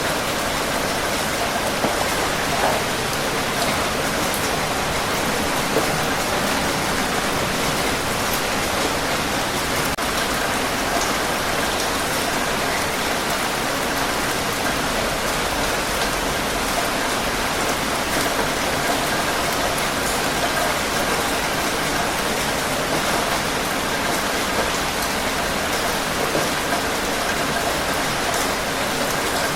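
Steady heavy rain falling on surfaces, a dense even hiss with scattered individual drop patters.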